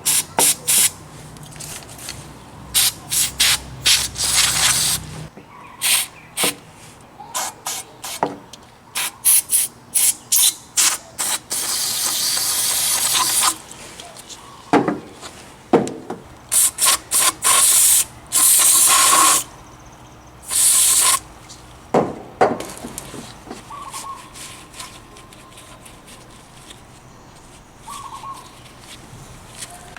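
Aerosol carburetor cleaner sprayed in many short hissing bursts and a few longer blasts of a second or two, with an occasional knock in between.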